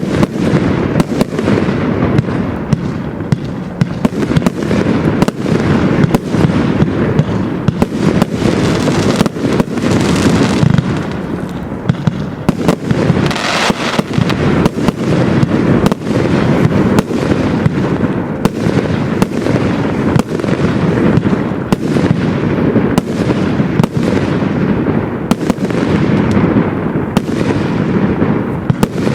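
A 200-shot consumer firework cake (Absolute Fireworks 'Game Changer') firing continuously. Many sharp bangs, often more than one a second, sound over a dense, unbroken rumble of launches and bursts.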